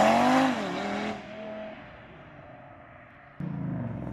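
A car engine revs up hard and drops back to idle in the first second, then fades. Another engine sound cuts in suddenly near the end.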